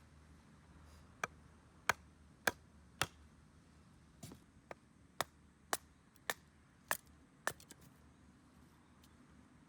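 A dozen sharp chopping strikes at a steady pace of about two a second, which then stop.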